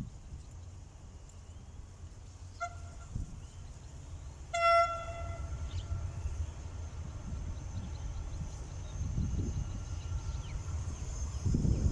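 Locomotive horn of a freight train: a short, faint toot, then about two seconds later a louder, brief blast. A low rumble builds near the end.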